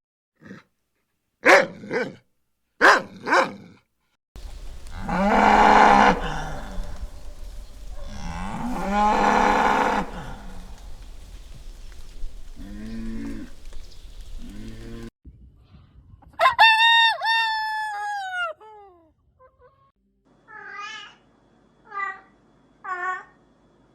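A string of farm animal calls cut one after another. Two long low moos, the loudest sounds, come about a quarter of the way in, among shorter calls. They are followed by a higher call that drops in pitch and then a run of short repeated calls near the end.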